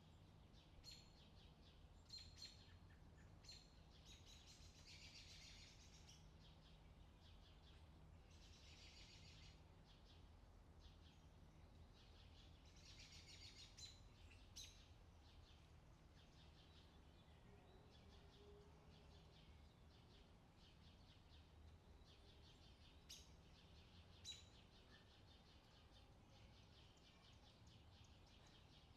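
Faint outdoor summer ambience: small birds chirping with short scattered calls and a few rapid trills, over a low steady hum.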